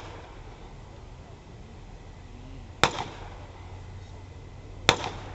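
Two sharp explosive bangs about two seconds apart, near the middle and near the end: battlefield pyrotechnic charges set off to simulate incoming artillery rounds landing.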